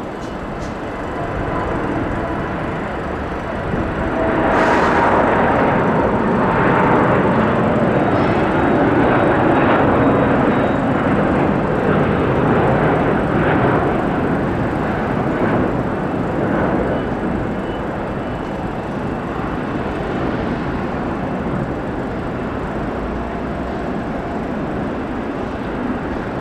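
Jet airliner engines passing close by: a broad rushing noise that swells about four seconds in, stays at its loudest for around ten seconds, then slowly fades.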